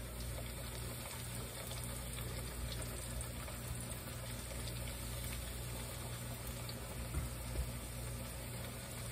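Coated squash slices frying in hot oil in a cast-iron skillet: a steady sizzle and bubbling, with a low steady hum underneath.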